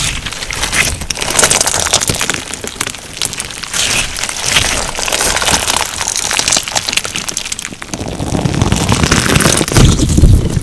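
Crunchy slime packed with tiny plastic sugar beads being squeezed and pressed, giving a dense run of crackling crunches. Heavier, deeper squishing presses come in the last few seconds.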